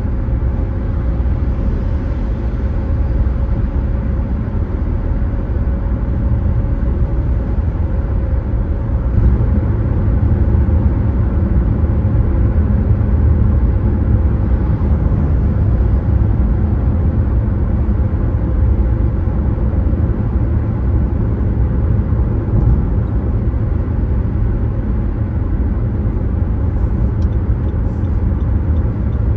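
A car driving: steady road and tyre noise with a low rumble, unbroken throughout, and a faint steady hum that fades out in the first third.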